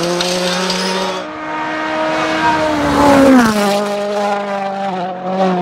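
Rally car engine running hard at high revs, holding a steady note. About three and a half seconds in, its pitch drops and then holds at the lower note.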